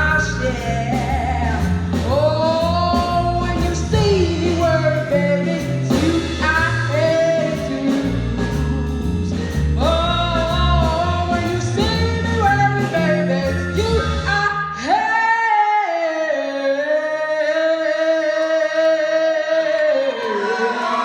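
A live band of drums, bass guitar, vibraphone and a singer playing a song. About fifteen seconds in, the drums and bass stop and the singer holds one long closing note.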